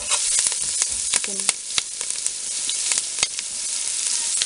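Onions, spices and curry leaves sizzling in hot oil in a metal pot, stirred with a metal ladle, with a steady hiss and scattered sharp clicks and ticks.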